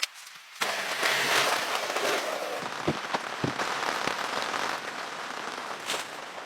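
Rain falling steadily, a dense hiss of patter that starts suddenly about half a second in, with a few sharper drips tapping on a surface.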